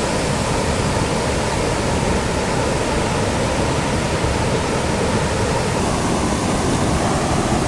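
Small creek waterfall pouring into its pool: a steady, unbroken rush of falling water.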